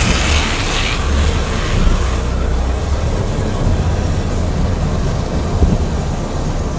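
Automatic car wash heard from inside the car: a hiss of soapy water spraying onto the car, which drops away about a second in, over a steady low rumble of the wash machinery.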